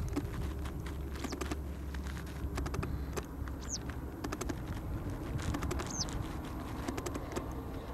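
Two short, high bird whistles, each falling in pitch, a few seconds apart, over a low rumble and clusters of quick clicks.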